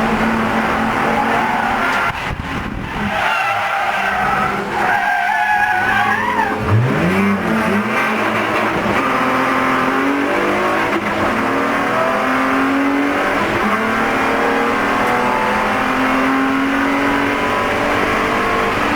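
Spec E46 BMW race car heard from inside the car. The tires squeal for a few seconds near the start, then the straight-six engine revs up through the gears under hard acceleration.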